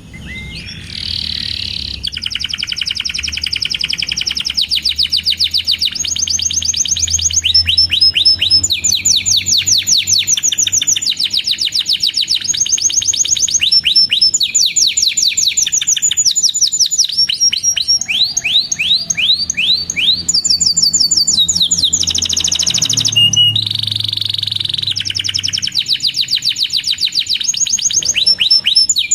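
Canary singing a long, unbroken song of rapid trills: fast runs of repeated chirping notes, with a new phrase every second or two.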